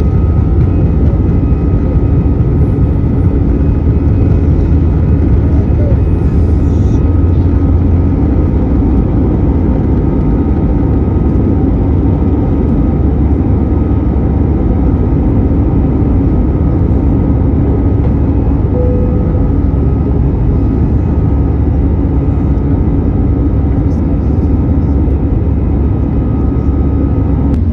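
Airliner cabin noise inside an Airbus A319-112 in flight: a steady, loud low rumble of engines and airflow, with constant humming tones from its CFM56 engines running unchanged throughout.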